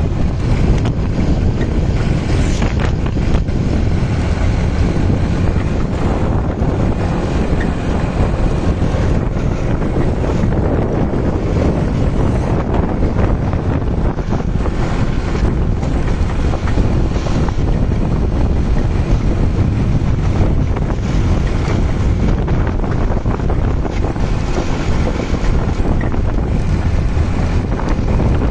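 Steady wind buffeting the microphone over a low, continuous engine rumble, as heard while riding a motorbike.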